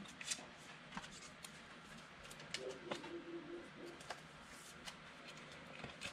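Football trading cards being handled and flipped through, with faint irregular clicks and rustles of card stock. A brief low hum sounds a little before halfway.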